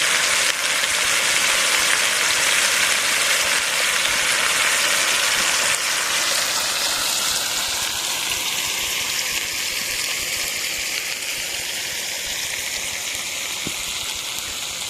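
Chicken breast frying in hot oil: a steady sizzling hiss. It eases a little about six seconds in and then fades slowly.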